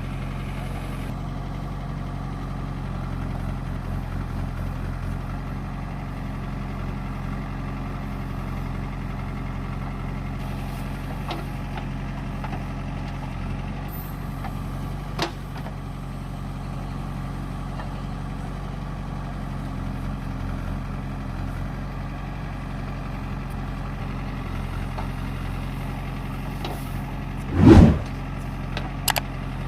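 Heavy diesel engine of earth-moving machinery running steadily, with a loud short thump near the end.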